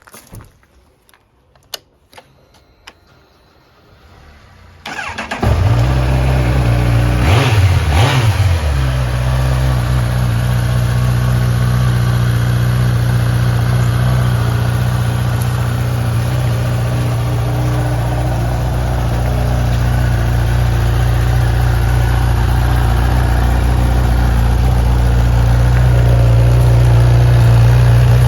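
2018 Honda CB1000R's inline-four engine being started: a few light clicks, then a brief crank about five seconds in and the engine catches. It is blipped twice, rising and falling in pitch, then settles into a steady idle.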